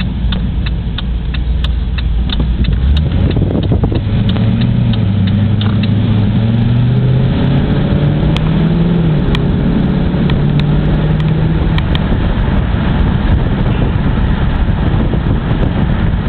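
Cammed Pontiac G8 GT 6.0-litre V8 with a 228/240 camshaft, American Racing headers and stock mufflers, heard from inside the car with the windows down. It idles for a few seconds, then pulls away under part throttle, its pitch climbing over several seconds before holding steady. A light, fast ticking comes through during the idle.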